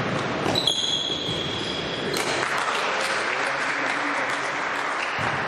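A single long, high-pitched blast on a referee's whistle in a sports hall, lasting about a second and a half. Spectators applaud after it.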